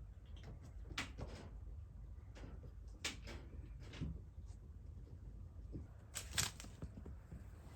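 Kittens playing and tumbling about, giving scattered light knocks and taps, with the loudest pair of knocks a little after six seconds in.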